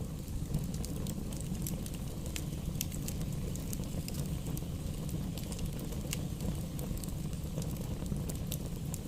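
Wood fire crackling in a fireplace: frequent small sharp pops and snaps over a steady low rumble of the burning fire.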